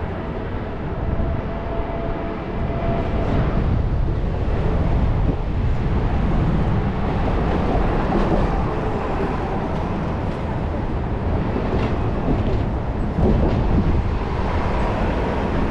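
Light rail train running along the track: a steady low rumble with a few faint clicks.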